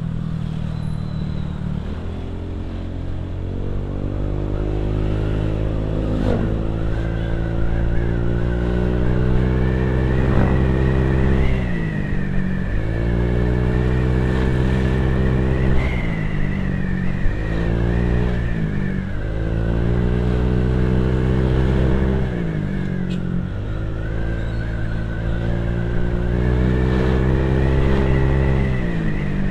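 Motorcycle engine and exhaust running under way. The engine note climbs steadily and then drops back sharply about five times, as with repeated runs up the revs and gear changes.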